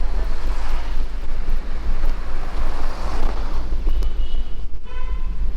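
Wind rumbling on the microphone of a bicycle-mounted camera while riding through street traffic, with a vehicle passing in the first half. A brief pitched tone sounds near the end.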